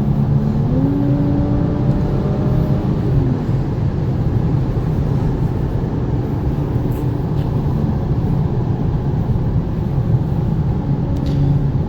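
2019 Audi S5 Sportback's turbocharged V6 pulling at high speed, heard from inside the cabin over steady road and tyre noise. The engine note climbs about half a second in, holds, then drops back around three seconds in.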